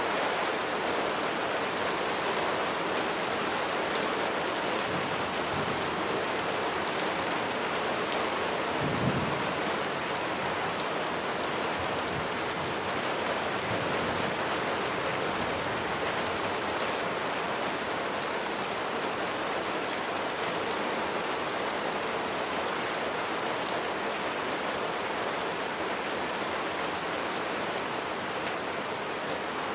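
Steady heavy rain falling, with scattered sharp drop hits. About nine seconds in there is a brief low rumble of thunder.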